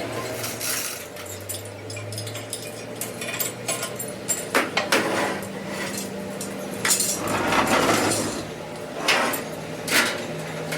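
Metal parts and tools clinking and knocking against one another several times, with a scraping sound about three-quarters of the way through, over a steady low machine hum.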